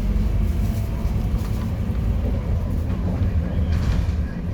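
Scania K230UB city bus's rear-mounted diesel engine running steadily under way, a continuous low drone, with a few light rattles near the end.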